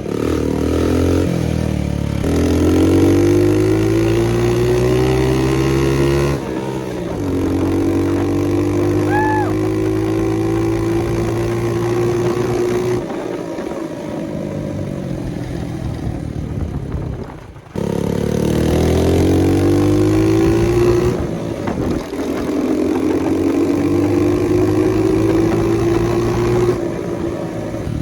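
Honda CT70 mini bike's small single-cylinder four-stroke engine being ridden through the gears. Its pitch climbs, drops at each shift and climbs again several times, easing off for a few seconds past the middle with a brief cut-out just before the last pull.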